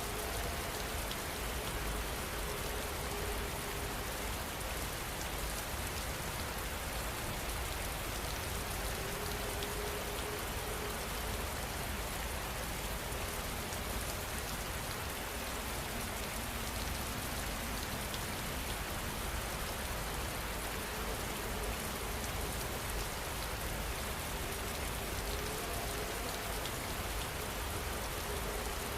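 Steady rain falling, an even hiss with fine drop patter, unchanging throughout.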